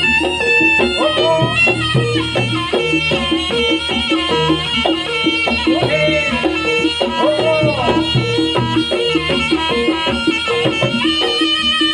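Live Javanese gamelan music accompanying a jaranan horse dance: steady struck tones and drum strokes in a continuous rhythm, with a wavering, gliding melody line over them.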